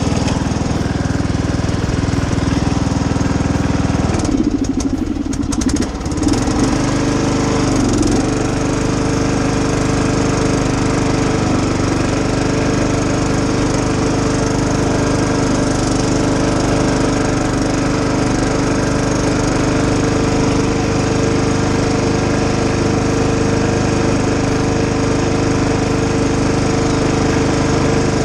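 12.5 hp Briggs & Stratton engine of a riding lawnmower running steadily at full throttle, heard from the driver's seat. Its pitch wavers and dips briefly about four to six seconds in, then holds steady.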